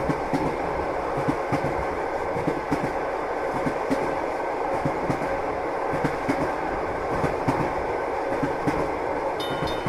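Train running on the rails: a steady rumble with irregular knocks of the wheels over the track. Just before the end, a high ringing starts repeating about three times a second.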